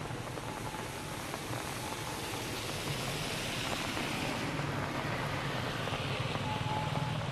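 Steady hiss of light rain falling, with a low rumble underneath that grows stronger in the second half.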